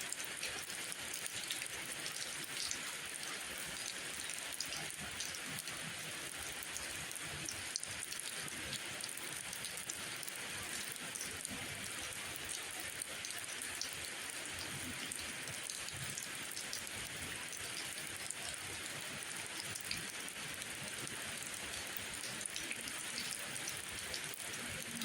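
Steady rainfall, an even hiss of falling rain with fine individual drop ticks scattered through it.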